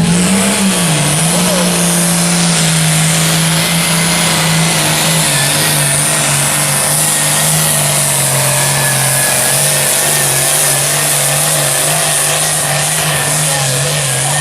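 Antique farm tractor engine working hard under load as it drags the weight sled. It revs up briefly at the start, then holds a steady, loud pitch that sags slightly partway through.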